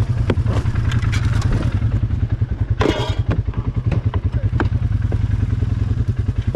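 ATV engine running with a steady, fast pulsing throb, with scattered clattering knocks and a brief loud hiss about three seconds in.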